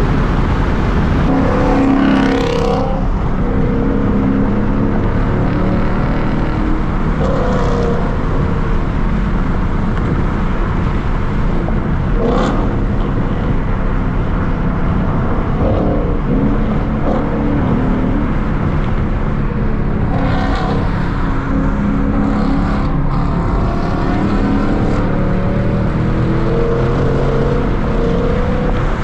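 Car engine and road noise heard from inside the cabin while cruising on a freeway, with the engine note rising and falling now and then.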